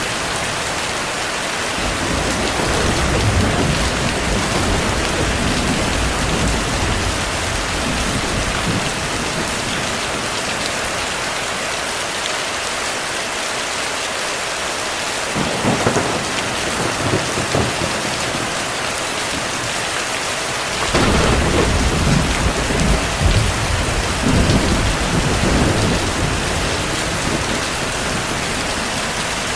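Heavy rain falling as a steady, even hiss, with thunder rumbling underneath. A louder roll of thunder comes about fifteen seconds in, and a stronger low rumble starts suddenly about twenty-one seconds in and rolls on for several seconds.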